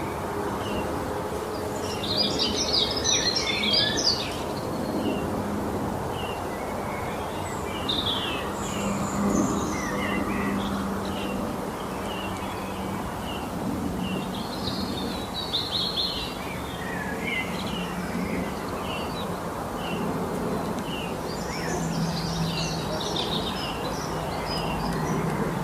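Several small birds chirping and singing: short repeated chirps throughout, with busier bursts of song about two seconds in, around the middle and near the end, over steady background noise.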